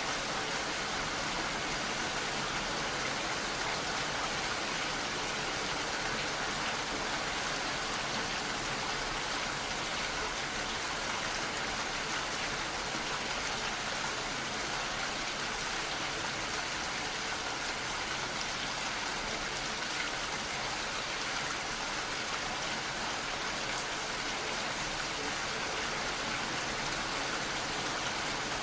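Steady rainfall with raindrops pattering on surfaces, an even hiss with faint scattered drop ticks.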